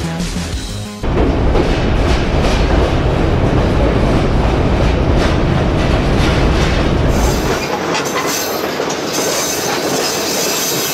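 A train running through a rock tunnel, heard from aboard: a sudden loud, dense rumble and rattle of wheels on track begins about a second in, after a short end of music. The deep rumble drops away at about three-quarters of the way through, leaving a lighter rattle and hiss.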